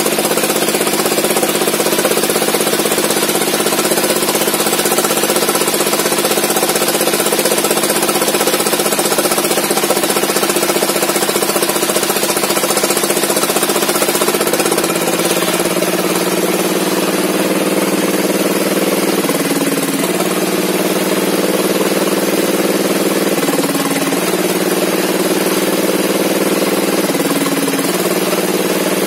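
Engine-driven log saw running steadily, with its engine pitch dipping briefly three times in the second half and recovering each time.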